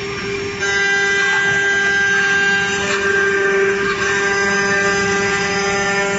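CNC woodworking machine's spindle running with a steady whine, getting louder about half a second in.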